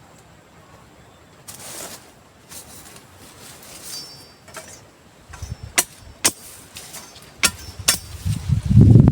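Four sharp knocks in about two seconds, then a loud low rumbling noise near the end.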